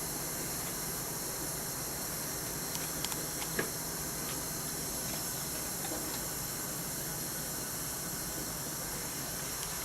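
Hot water running from a tap into a bucket, a steady hiss, with a few light clicks about three seconds in.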